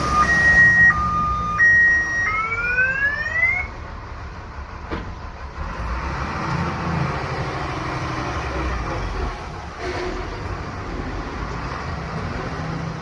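An electronic two-tone alarm or horn switching back and forth between a high and a low note, then two rising siren-like whoops that end about four seconds in. After that, a vehicle engine runs steadily under a noisy rumble.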